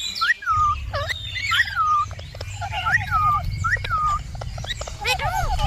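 Birds calling: a whistled call that rises sharply and then falls, repeated about once a second, overlapping lower wavering trills, over a steady low rumble.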